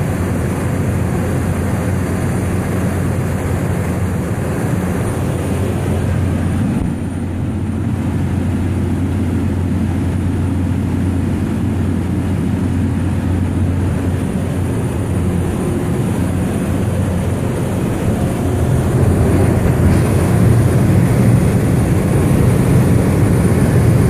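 Small aircraft's engine and propeller droning steadily. The drone dips briefly about seven seconds in and grows louder near the end.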